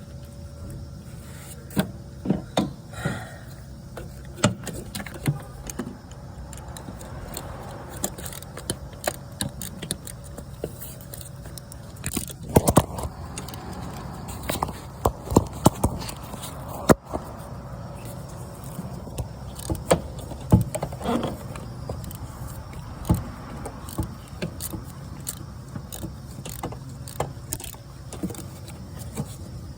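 Hand tools, a socket and swivel extension among them, clinking and knocking against metal under the hood during an oil pressure sensor replacement. The clinks are scattered and irregular over a steady low rumble.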